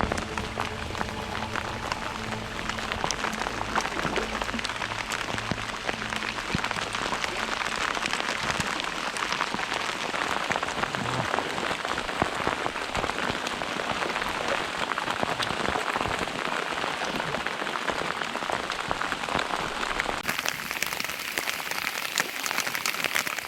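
Rain falling steadily on a surface, a dense patter of many small drops, cutting off suddenly at the end.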